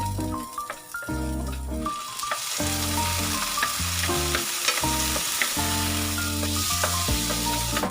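Food sizzling as it fries in a pan, starting about two seconds in, over background music of held notes.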